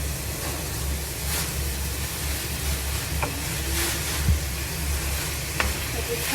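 Onion and grated carrot sizzling in a frying pan while being stirred, with soy sauce just added. A few light scrapes of the utensil sound over the steady sizzle.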